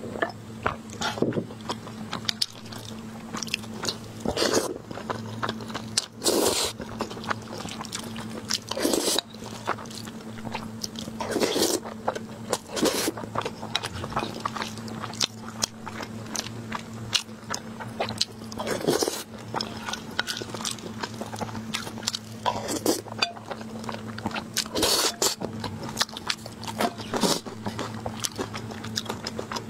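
Close-miked chewing and biting of braised pork and rice, with wet mouth clicks, the occasional louder bite, and a wooden spoon now and then scraping the ceramic plate, over a steady low hum.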